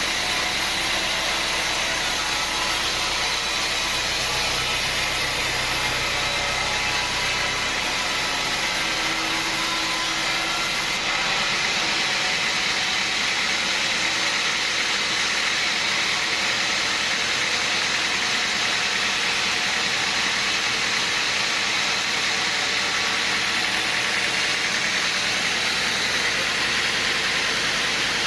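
Sawmill machinery running steadily with a dense, even noise. A low rumble under it fades away about a third of the way through, and the noise grows slightly louder shortly after.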